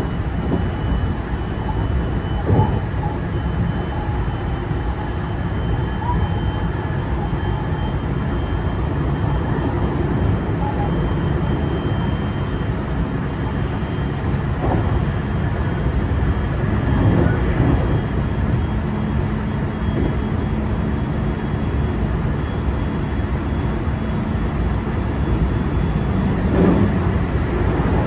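Inside a JR West 223 series 2000-subseries motor car with Mitsubishi IGBT traction equipment, running at speed with a steady rumble of wheels on rail. A thin high whine fades away over the first half. A few separate knocks come from the wheels passing rail joints.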